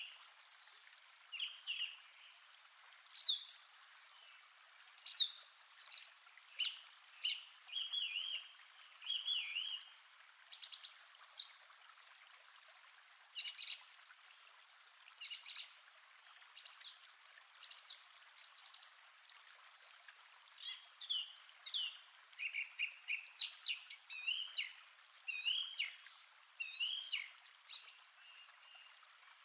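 Songbirds chirping and singing in a forest, short varied calls and trills coming every second or so, over a faint steady hiss.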